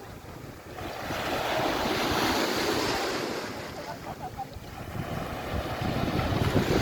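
Waves washing onto the beach, swelling twice, once about a second in and again near the end, with wind buffeting the microphone.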